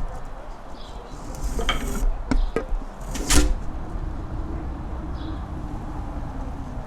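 Mountain-top wind buffeting the microphone: a low rumble with a faint wavering howl. A few sharp clicks or knocks come between about one and a half and three and a half seconds in, the loudest near the middle.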